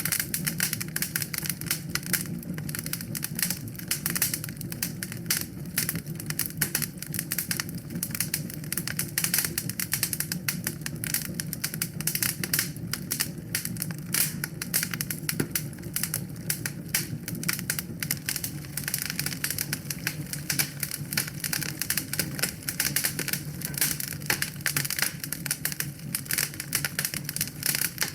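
Wood fire crackling in a fireplace: dense, irregular pops and snaps over a steady low hum.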